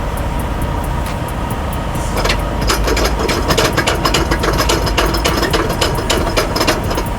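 Rapid ratcheting clicks start about two seconds in and run on over a steady low engine rumble.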